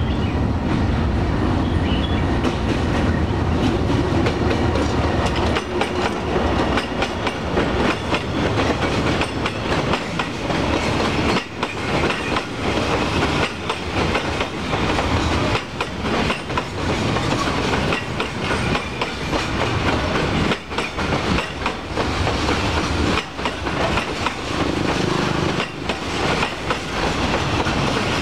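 Freight train hauled by a D19E diesel-electric locomotive passing, with a deep engine drone for the first few seconds, then the wagons' wheels clattering steadily over the rail joints.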